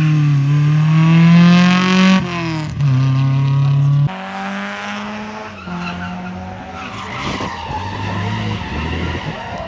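Rally car engine at high revs, its pitch climbing then dropping sharply with gear changes, loudest in the first four seconds. After about six seconds the engine is quieter and mixed with rough tyre and gravel noise.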